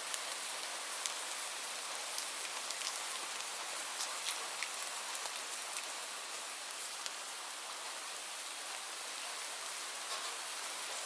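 Steady rain falling, a constant hiss with many distinct drops pattering on a hard surface.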